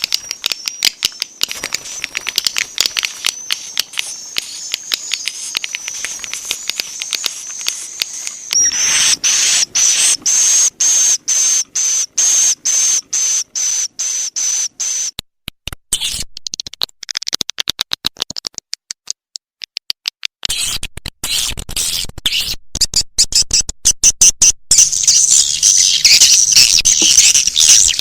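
Swiftlet lure-call recording: fast strings of high, sharp chirps and clicks, with a long high trill from about a third of the way in, a thinner stretch in the middle, and dense loud twittering near the end. It is the kind of call track played in swiftlet houses to draw the birds in to nest.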